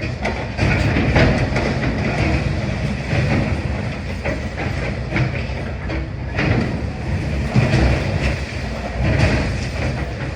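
Demolition excavator at work: the diesel engine runs steadily under continual clatter, knocks and crunches of breaking masonry and rubble.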